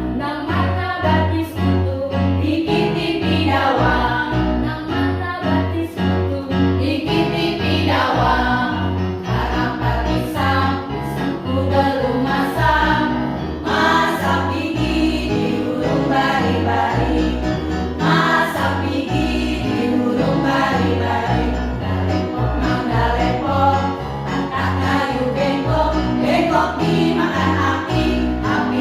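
A choir singing in parts over an instrumental accompaniment with a steady beat in the bass.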